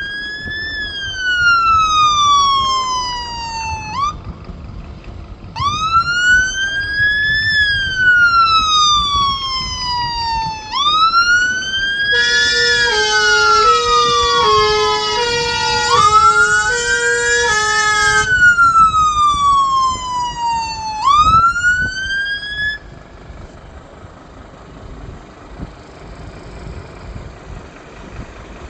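Fire engine siren wailing: each cycle climbs quickly, then falls slowly over about three seconds, repeated several times with a short break after the first. For about six seconds in the middle, a simple electronic tune of stepped notes plays over the wail. The siren stops about three quarters of the way through, leaving a quieter vehicle and street rumble.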